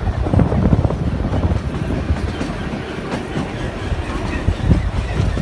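Narrow-gauge Kalka–Shimla toy train running, heard from aboard: a loud, steady rumble of the carriages on the track with irregular knocks from the wheels.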